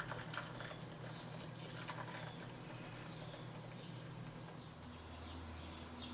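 Faint kitchen handling sounds: scattered light clicks and taps over a steady low hum.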